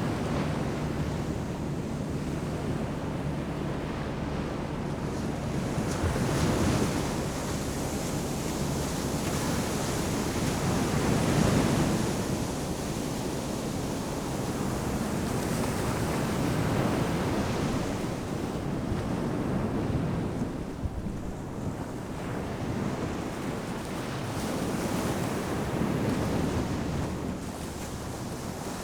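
Ocean surf breaking on a sandy beach in a steady wash of noise, swelling every few seconds as each wave comes in, with wind buffeting the microphone.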